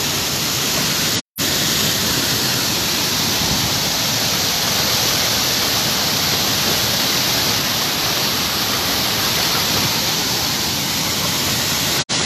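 Waterfall: a steady rush of falling water, broken twice by a split-second dropout, once about a second in and once near the end.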